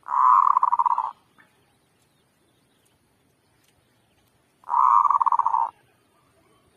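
Zebra dove (merbuk) cooing twice, each call about a second of rapid staccato notes, the second call following about four and a half seconds after the first.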